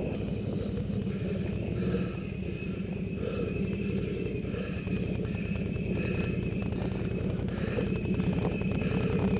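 ATV engine running steadily at a fairly even pace, with a thin steady high whine above the low engine sound.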